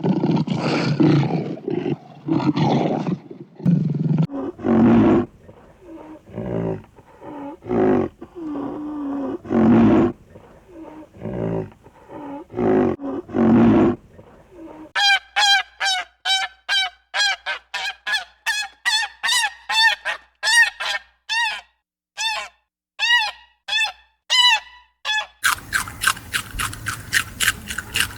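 A series of animal calls. For about fourteen seconds there are loud, rough calls. Then comes a run of short pitched calls, each rising and falling, about two a second, and near the end a quick run of short pulses.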